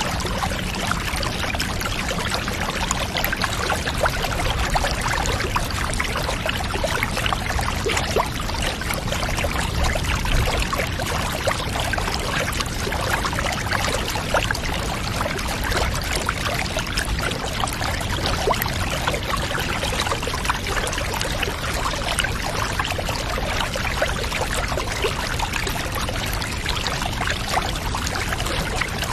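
Water pouring and trickling steadily without a break.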